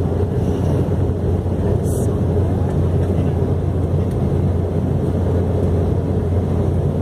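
Steady low drone of a moving vehicle heard from inside, an even rumble with no change in pitch or level.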